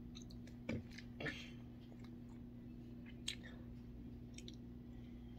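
A child chewing a gummy candy: faint mouth clicks and smacks, a few of them sharper, over a steady low hum.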